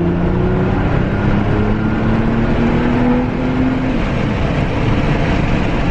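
Nissan GT-R R35's twin-turbo V6 with a custom titanium cat-back exhaust, heard from inside the cabin, its revs climbing steadily under acceleration. About four seconds in the engine note drops away, leaving steady road and tyre noise.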